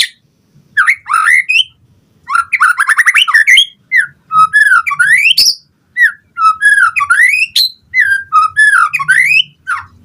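White-rumped shama singing a vigorous run of varied phrases: fast rattling trills and sweeping rising and falling whistles, each phrase broken off by a short pause.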